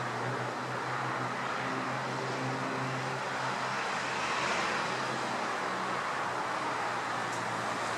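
A low, steady engine hum, likely distant traffic or an aircraft, over a constant rushing background noise. The hum fades out about six seconds in.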